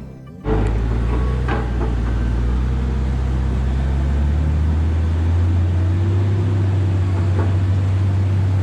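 Heavy diesel engine running steadily with a loud low drone, starting suddenly about half a second in.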